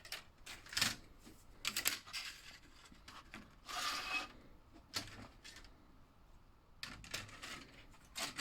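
Plastic slot car track pieces being handled: scattered light clicks and rubs, with a longer scraping rub about four seconds in.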